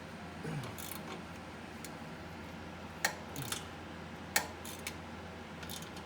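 A hand wrench tightening a bolt down, giving a few irregular sharp metallic clicks and ticks several seconds apart, the two loudest about three and four and a half seconds in.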